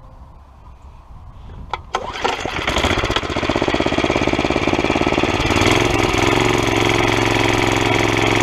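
Tecumseh small single-cylinder engine on a Murray mini bike starting about two seconds in, running unevenly at first and then settling into a steady idle. The owner says it still acts like it is starving for fuel, which he puts down to its running without an air filter and sucking in cold air.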